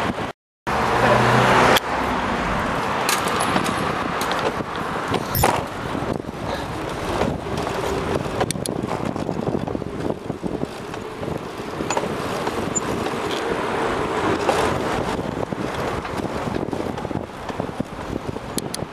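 City street traffic noise, with cars passing, heard from a bicycle riding through it. The sound cuts out completely for a moment near the start.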